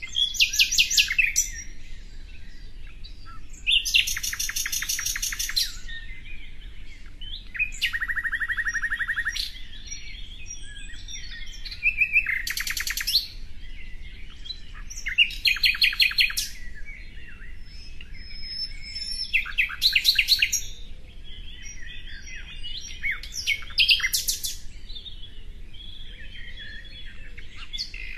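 Songbird singing: a loud, rapid trilled phrase of about a second repeats roughly every four seconds, with softer chirps and twitters in between. One phrase, about eight seconds in, is a lower, buzzy trill.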